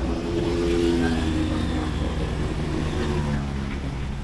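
Motorcycle engine running under way, with wind and road noise and surrounding city traffic.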